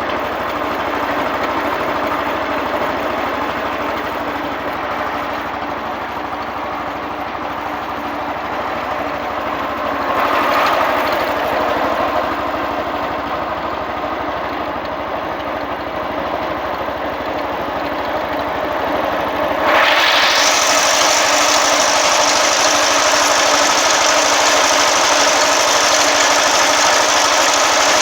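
Single-cylinder four-stroke 6.5 hp Honda-clone engine on a Wheel Horse A-100 garden tractor running steadily at low speed, with a brief rev about ten seconds in. About twenty seconds in it is throttled up and runs faster and louder, holding there to the end.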